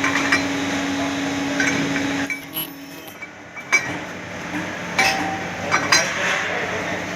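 Rubber-moulding hydraulic press with a steady machine hum that stops about three seconds in, followed by a series of sharp metallic clinks and knocks as metal mould parts and tools are handled.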